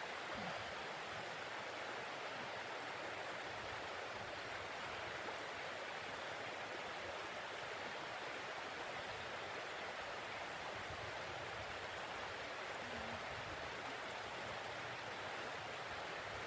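Steady, even rushing hiss with no separate drops, gusts or knocks, like storm wind or heavy rain.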